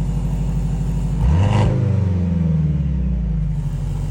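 Mercedes-AMG C63 exhaust at idle, blipped once about a second in: the revs climb quickly, then fall back to a steady idle over the next two seconds.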